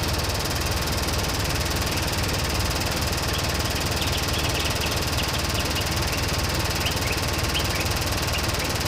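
Jeep engine running steadily at idle. Short high chirps come in about three seconds in and go on until near the end.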